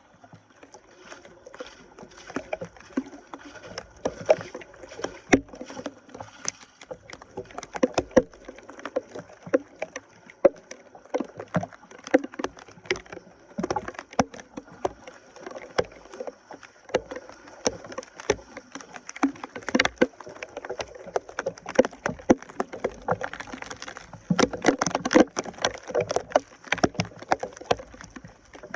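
Debris being pulled out of water at a clogged drain: irregular splashing and sloshing with many sharp snaps and knocks of sticks and branches.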